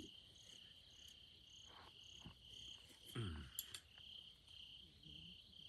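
Faint insects chirping at night, crickets by the sound of it, in a steady repeating chirp about twice a second with a fainter higher chirp alongside. A short low voice sound comes about three seconds in.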